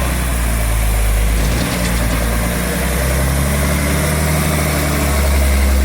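Large vehicle engine running loudly, its pitch shifting up and down a few times as the revs change.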